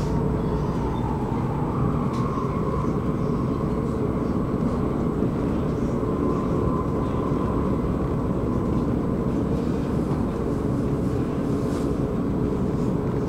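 Commuter train running, heard on board: a steady rumble of the wheels on the track with a faint steady whine over it.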